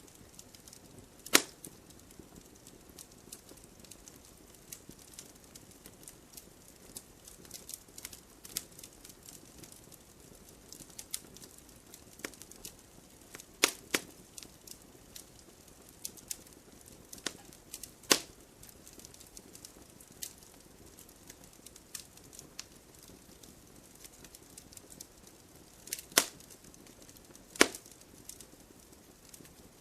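Wood fire crackling in a fireplace, with irregular small clicks and sharp pops of burning logs over a faint, steady hiss. The loudest pops come about a second in, twice around the middle, and twice near the end.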